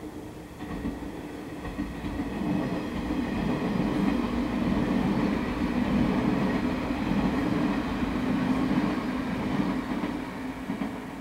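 A yellow electric multiple-unit local train passing along the track, its wheels and running gear rumbling on the rails. The sound builds over the first few seconds, is loudest midway and fades away near the end.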